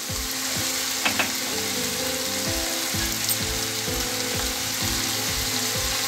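Country chicken pieces frying in oil in a pan, a steady sizzle, with background music with a steady beat underneath.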